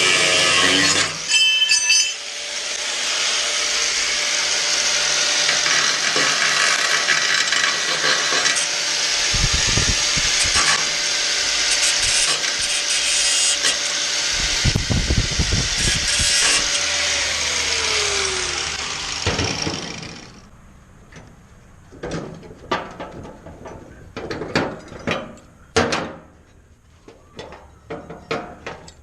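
Angle grinder cutting through steel: a loud, hissing grind over the motor's steady whine. The whine falls away as the grinder spins down, and the cut stops about 20 seconds in, followed by a scatter of light metal clanks and knocks.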